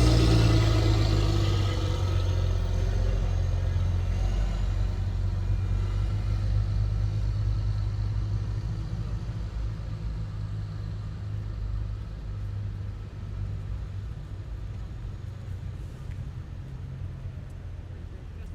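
Heavy military vehicle driving past and away: a deep engine rumble with high whining tones, loud at first and fading steadily as it recedes, the whine dropping slightly in pitch early on.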